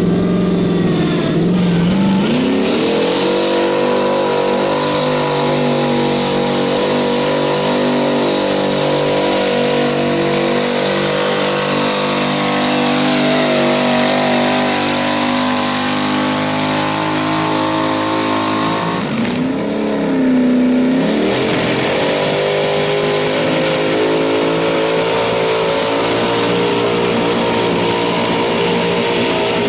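Modified garden tractor pulling engine revving up and then held at high revs. About twenty seconds in, the revs drop briefly and climb back before holding steady again.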